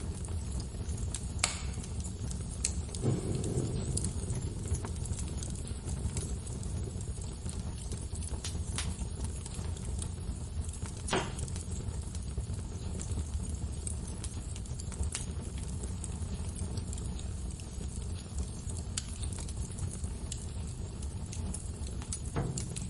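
Fireplace crackling: a steady low rumble of burning wood with scattered sharp pops, half a dozen of them standing out.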